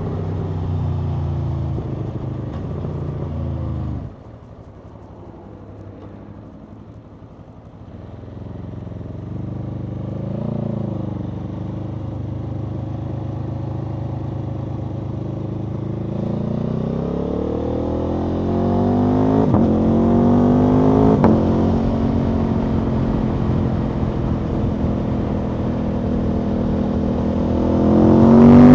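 Aprilia Tuono V4 motorcycle's V4 engine on a ride: running steadily, then the throttle shuts about four seconds in and the engine goes quiet for a few seconds. It builds again, its pitch rising over several seconds with a few sharp clicks, and near the end it opens up and gets much louder.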